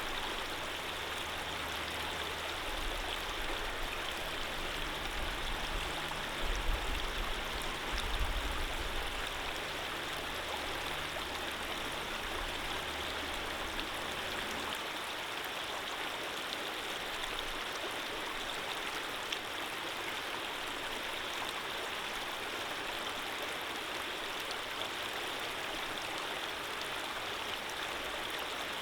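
Running water flowing steadily in an even rush, with a low rumble underneath that swells a few times and stops about halfway through.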